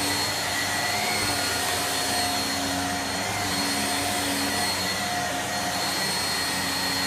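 Shark vacuum cleaner running steadily: a constant motor whine over rushing air, with slight wavers in pitch as it is worked.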